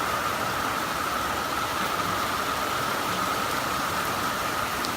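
Heavy cyclone rain pouring down in a steady, unbroken downpour.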